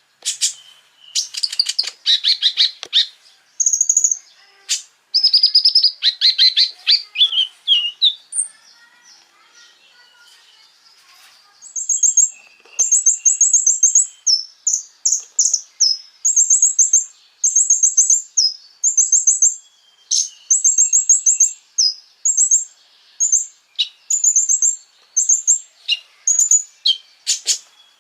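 A small songbird known in Indonesia as the konin, singing. It opens with rapid high trills that sweep downward, falls quiet for a few seconds, then gives a long series of short, very high chirping phrases repeated over and over.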